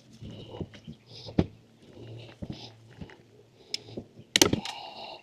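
Knocks and clatter of wooden platform panels and hardware being handled and fitted during assembly: a sharp knock about a second and a half in, and a louder rattling clatter of quick clicks near the end.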